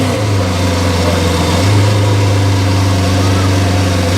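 Sports car engine running steadily at a constant low speed, a deep even hum with no revving.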